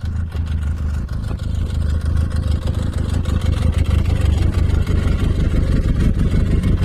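Snowmobile engine running with a steady low note, getting slightly louder toward the end.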